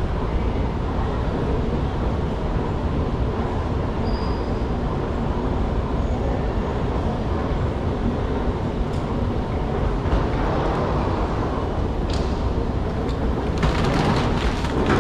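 Steady rumble of a moving train heard from inside the car, with a few sharp clicks and a louder, rattlier stretch near the end.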